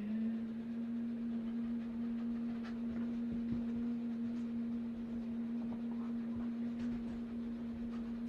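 A person humming one steady low note, held for about nine seconds. It slides slightly up in pitch as it starts, then stays level.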